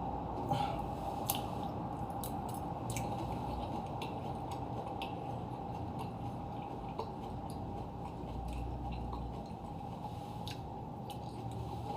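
Quiet eating sounds: scattered light clicks of a spoon against a plate, with soft wet chewing, over a steady low room hum.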